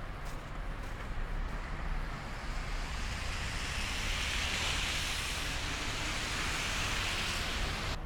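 A car passing on a snowy street: the hiss of its tyres swells over several seconds and cuts off abruptly near the end.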